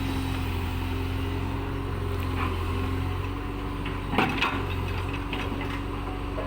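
Truck engine idling steadily, with a brief knock about four seconds in.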